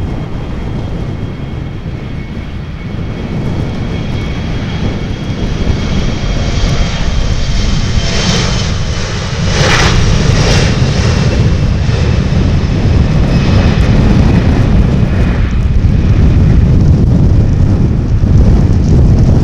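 Jet airliner passing, its engine whine slowly falling in pitch, over heavy wind buffeting the microphone; the sound grows louder about halfway through.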